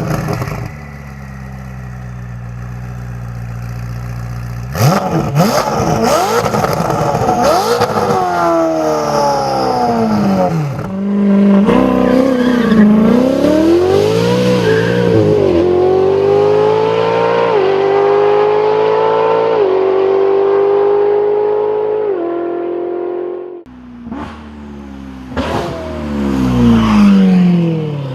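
Ferrari 488 GTB twin-turbo V8 running through a Novitec Race exhaust with the catalytic converters removed. It idles, is blipped several times with the revs falling away after each, then pulls hard through the gears, its pitch dropping at each upshift. It lifts off suddenly, then is revved again near the end.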